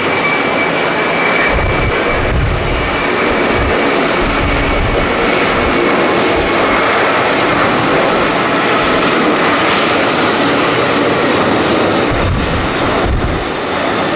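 Jet airliner engines running loud and steady as a passenger jet passes, with low gusts of strong wind buffeting the microphone a couple of seconds in and again near the end.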